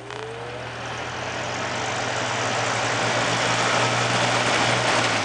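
Lasko 3723 box fan starting from a stop on medium speed: a rising motor whine levels off about half a second in, then a steady motor hum with the rush of air growing louder as the blades come up to speed.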